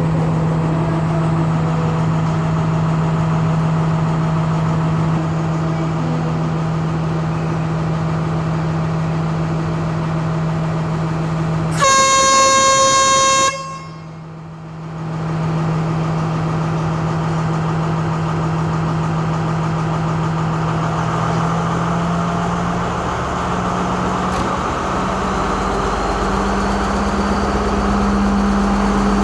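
Diesel train engine running with a steady drone. About twelve seconds in, one loud horn blast lasting about a second and a half. Near the end the engine note rises and deepens as it throttles up.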